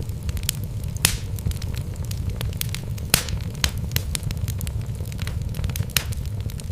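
Wood logs burning in a fireplace: a steady low rumble of the flames with frequent sharp crackles and pops, the strongest about a second in, around three seconds in and near the end.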